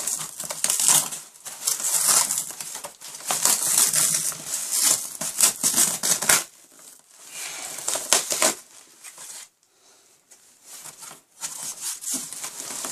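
Packaging rustling and crinkling in dense bouts while a 3D printer is unpacked from its box. The rustling pauses briefly about two-thirds of the way through, then picks up again near the end.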